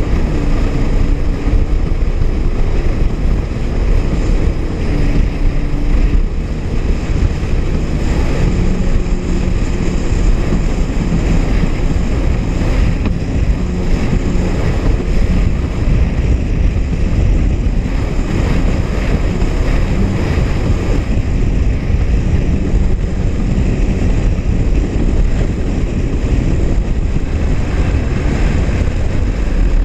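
Honda jet ski running under way across the water, its engine drone mixed with rushing water and wind buffeting the microphone.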